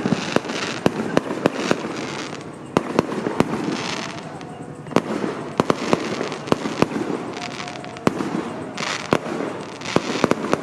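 Fireworks and firecrackers going off in quick, irregular succession: many sharp bangs, with stretches of hissing crackle in between.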